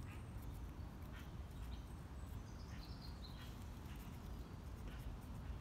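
Quiet outdoor background: a steady low rumble with faint bird chirps scattered through it, including a short descending call about halfway through.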